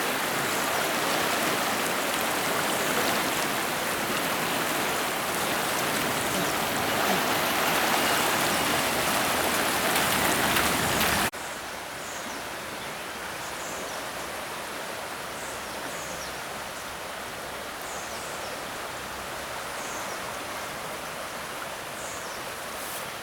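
Steady rushing of a flooded, swollen river. About halfway through it cuts suddenly to a quieter rush, with faint high chirps repeating every second or two.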